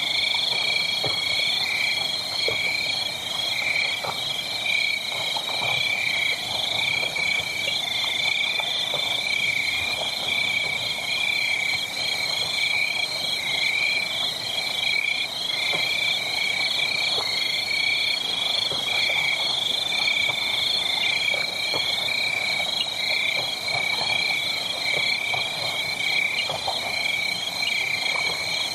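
A loud, steady chorus of rapidly pulsing animal calls, with soft wood-fire crackles scattered underneath.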